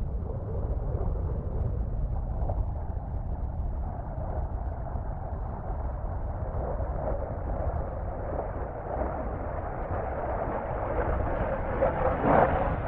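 Distant military jet engine rumbling steadily and growing louder near the end as the aircraft approaches.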